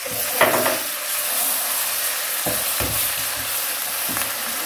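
Onions and ginger-garlic paste sizzling in hot oil in a wok, with a wooden spoon stirring and scraping against the pan several times, the loudest scrape about half a second in.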